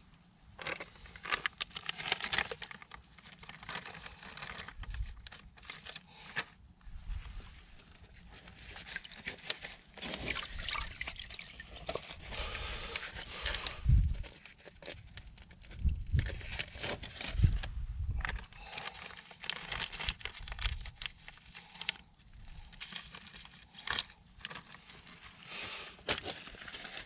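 Water and wet soil being worked by hand: irregular splashing, sloshing and scraping, with a few heavy thuds around the middle.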